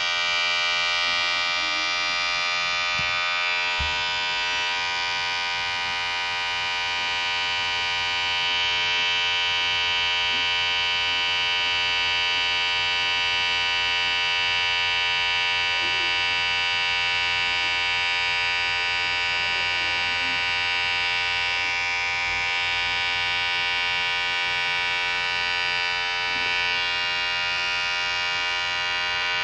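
Electric hair clipper running with a steady, unchanging buzz.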